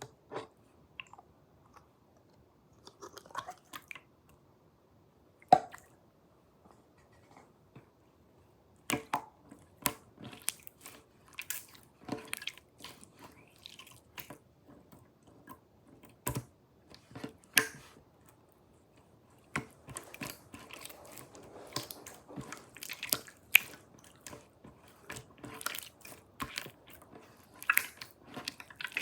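Slime being squished and pressed by hand, with irregular sharp clicks and pops. The pops are sparse at first and come thick and fast from about nine seconds in.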